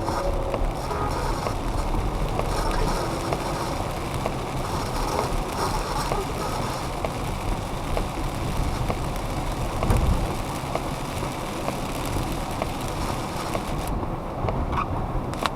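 Car cabin noise while driving in the rain: a steady low road rumble and hiss, broken by many short chopped clicks and fragments from a PSB-11 radio-sweep box running through noise gates. There is a louder thump about ten seconds in.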